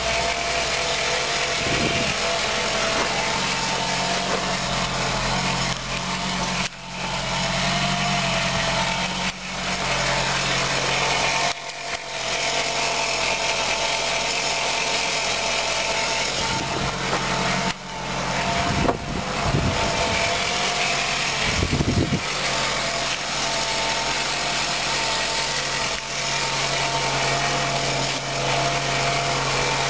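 2001 Ford Focus station wagon's four-cylinder engine idling steadily, with a few brief dips in level.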